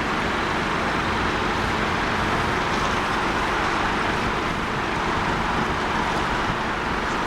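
Jet airliner engines running with a steady, even noise that holds at one level throughout.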